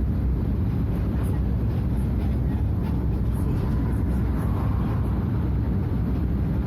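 Scania F250HB bus's DC09 five-cylinder diesel engine running steadily under way, a constant low drone with no revving.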